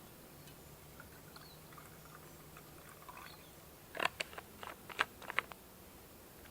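A quick run of about eight sharp clicks and clinks a little past halfway, over faint high bird chirps.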